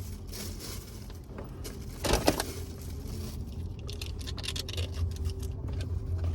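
Paper takeout bag and food wrappers rustling and crinkling as they are handled, loudest about two seconds in and crackling densely through the second half, over the low hum of a car cabin.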